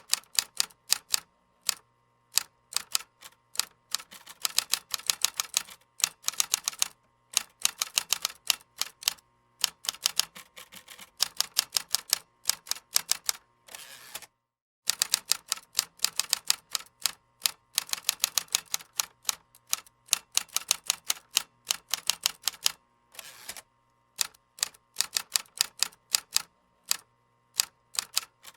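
Typing on a computer keyboard: quick runs of key clicks broken by short pauses, with a brief dead silence about halfway through.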